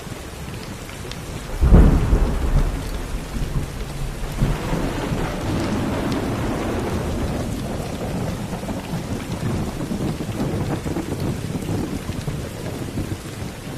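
Steady rain falling with a sudden thunderclap about two seconds in, followed by thunder rumbling and rolling on for several seconds under the rain.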